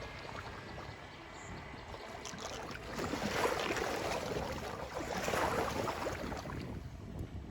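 Floodwater flowing and splashing at a cleared drain grate, swelling louder twice in the middle.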